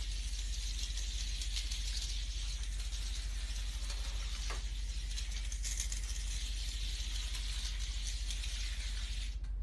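Steady hiss over a low hum, with faint scattered ticks, cutting off abruptly right at the end.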